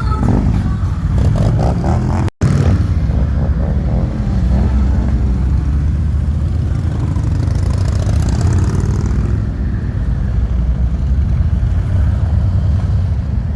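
A stream of motorcycles riding past, their engines running with a heavy low rumble and rising and falling in pitch as riders rev and accelerate. The sound cuts out for an instant about two seconds in.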